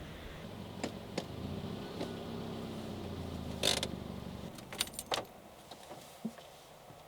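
Car engine idling, then switched off about two-thirds of the way through, with sharp clicks and a brief jingle like keys.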